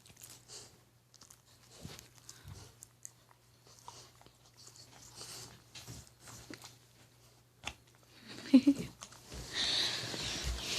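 Dog chewing and biting on a toy, with scattered soft clicks and crunches that grow louder and busier near the end.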